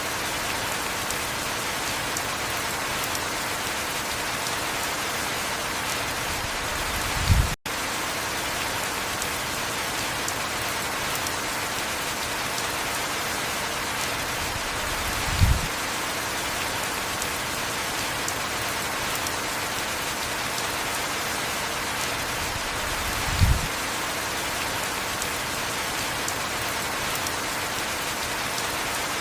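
Steady heavy rainfall, an even hiss. A brief low thump comes three times, about eight seconds apart, and just after the first one the sound drops out for an instant.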